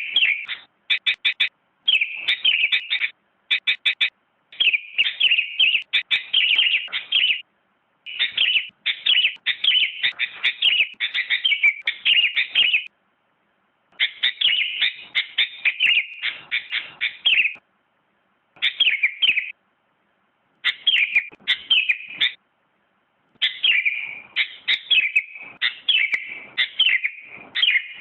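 Sooty-headed bulbul (kutilang) singing: runs of quick, bright chirping notes, each run lasting one to a few seconds, with short silent gaps between them.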